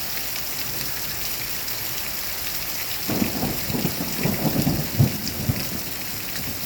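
Rain falling steadily in a thunderstorm. About halfway through, a crackling rumble of thunder comes in and lasts two to three seconds, with its sharpest crack near the end of the rumble.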